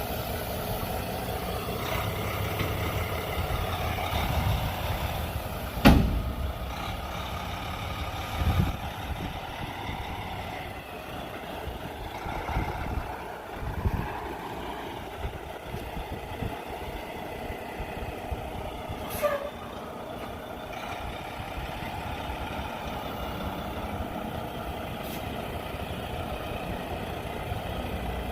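Semi truck on the move, heard from the cab: steady diesel engine and road noise, with a sharp knock about six seconds in, a few lighter thumps after it, and a short falling squeak near the end of the second third.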